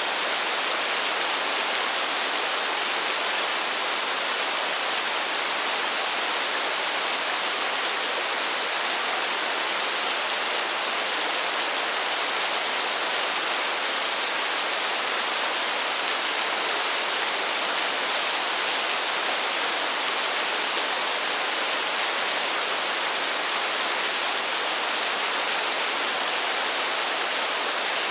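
Steady rain, a dense, even hiss in which no single drops stand out.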